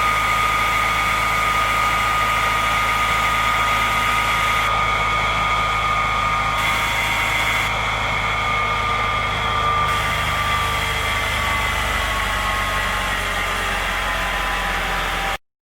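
Light fire truck's engine running steadily at idle, with a steady high whine over it that sags slightly lower later on; the sound cuts off abruptly near the end.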